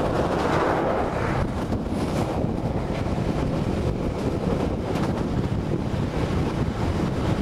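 Wind buffeting the microphone held out of a moving passenger train's window, over the steady low rumble of the carriage running along the rails. The rush swells for about the first second and a half.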